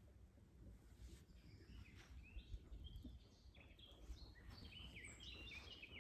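Faint songbird singing: a rapid run of short chirping notes that starts about two seconds in and grows busier toward the end, over a low background rumble.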